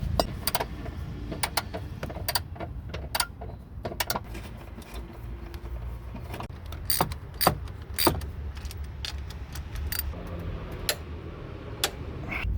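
Metal hand tools and parts clinking and knocking: sharp, irregular metallic clicks over a low rumble, as in the work of unbolting and fitting car engine and transmission mounts.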